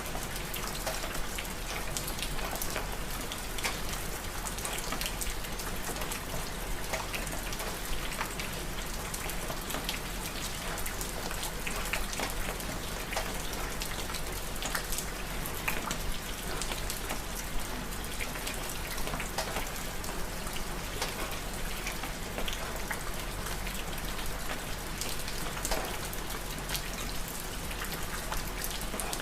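Steady rain falling, with many separate drop hits standing out against an even hiss.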